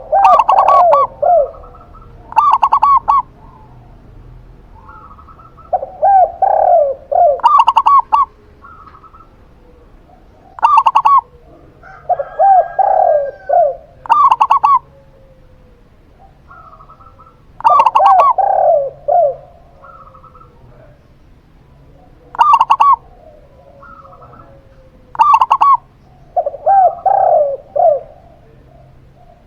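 A zebra dove (perkutut) and a spotted dove (tekukur) cooing in turn. Short phrases of a few notes come every few seconds, some lower and falling, others higher and more clipped.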